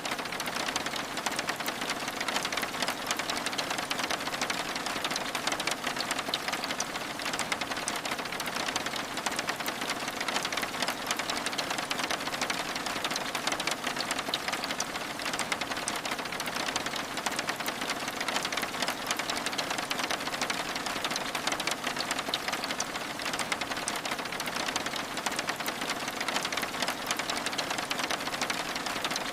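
Steady rain with a dense patter of fine drop ticks over an even hiss, falling on window glass.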